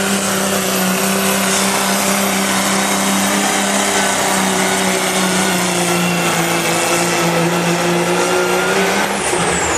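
Turbo diesel pickup truck engine running hard at a steady high speed under load, pulling the sled, its pitch sagging slightly near the end.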